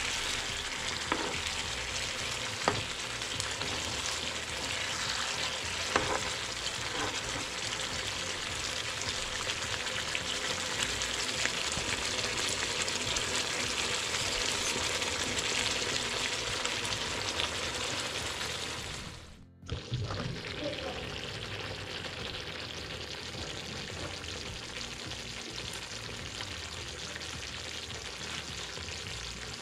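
Thick prawn ghee roast masala sizzling and spitting in a frying pan as it reduces to a thick paste, with a spatula stirring and knocking against the pan a few times in the first six seconds. After a sudden break about two-thirds through, the sizzling carries on, a little quieter.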